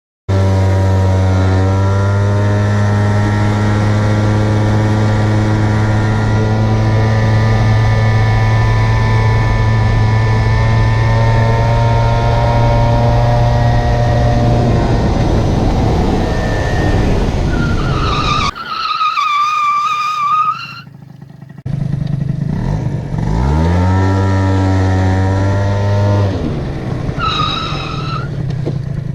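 Peugeot Speedfight 100 scooter's two-stroke engine through a Tecnigas exhaust, held at a steady high drone at full throttle. Later the sound breaks off briefly, then the revs climb again and hold.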